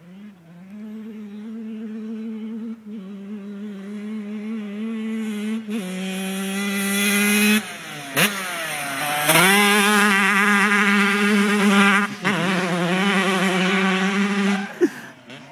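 Yamaha YZ125 two-stroke motocross bike engine running at high revs, growing louder. About eight seconds in the pitch drops sharply and climbs again, then the engine is at its loudest for a few seconds and fades near the end.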